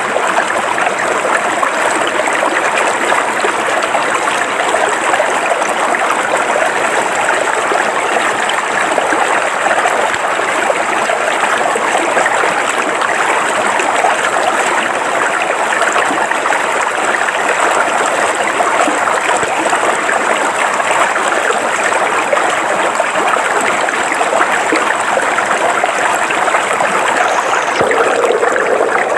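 River water flowing steadily over rocks, an even rushing babble that turns slightly deeper near the end.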